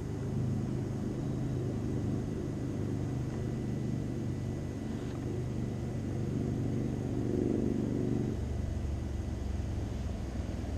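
A motor vehicle engine running steadily at close range, a low rumble that drops to a deeper note about eight seconds in.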